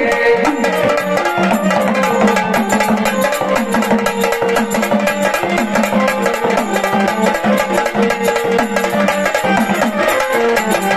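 Instrumental gondhal folk music: sambal drums played in rapid, dense strokes over steady held notes.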